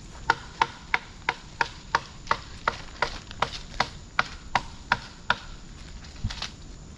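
Machete chopping wood with quick, even strikes, about three a second, for some five seconds, then stopping. A single dull thump follows about a second later.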